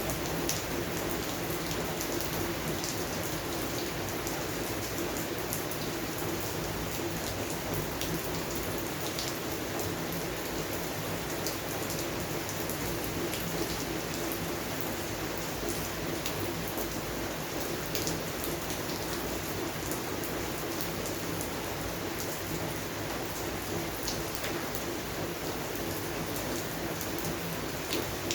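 Steady rain falling on a garden: an even hiss with many sharper individual drops scattered through it.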